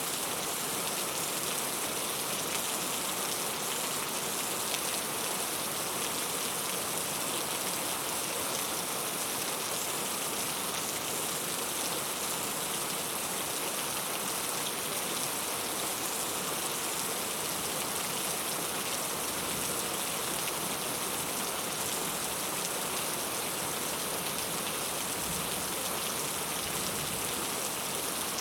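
Steady rain falling, a dense even hiss of raindrops with fine pattering.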